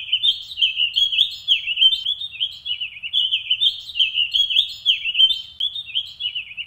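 A songbird singing a continuous stream of quick chirps and warbled notes that slide up and down in pitch.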